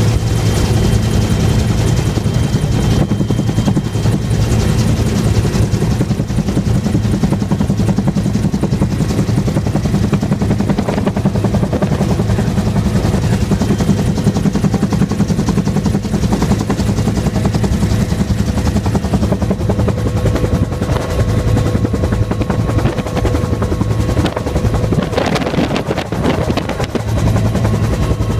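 Helicopter running at a steady, loud level: a continuous rotor and engine noise with a low, fast beat and a few steady whining tones over it.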